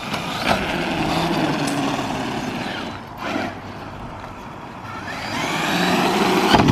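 Electric RC truck driving hard, its motor whining over tyre noise. It eases off about three seconds in, then the whine rises again as it speeds up, loudest near the end.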